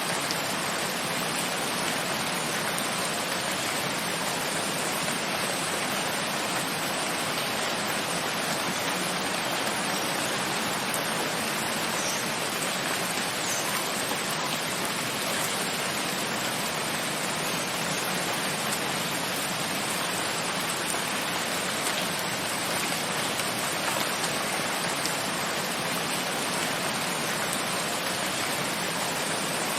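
Steady heavy rain, a dense even hiss of falling water with a few faint drop ticks.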